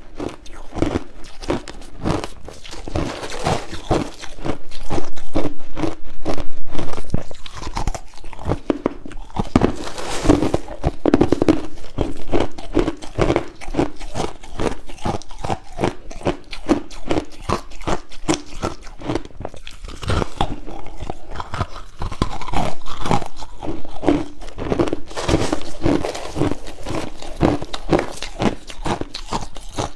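Crushed ice being bitten and chewed close to the microphone: a continuous run of rapid, crisp crunches, loudest about five to seven seconds in.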